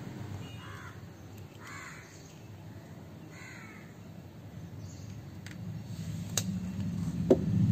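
A bird gives three short, harsh calls about a second and a half apart, followed near the end by a few light clicks.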